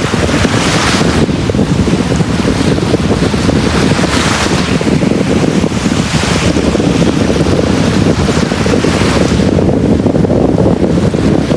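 Sea waves breaking and washing up a beach: a steady low rumble of surf, with hissing swells of wash every couple of seconds. Wind rumbles on the microphone.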